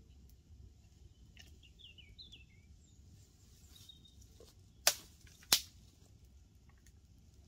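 A bird's short run of quick, falling chirps, then two sharp cracks about half a second apart over a faint steady background.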